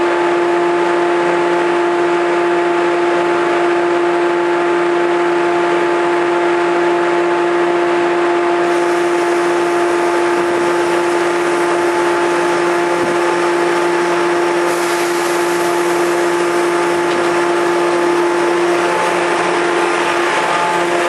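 JR 113 series electric train moving slowly over a level crossing while shunting in reverse: a loud steady tone throughout, with a hiss that grows about nine and again about fifteen seconds in.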